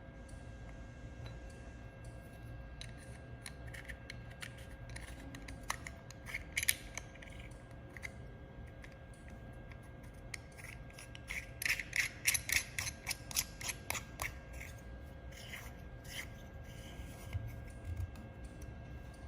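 Small clicks and rubbing from hands handling the welder's protection-lens parts, with a quick flurry of clicks about twelve seconds in, over a steady low hum.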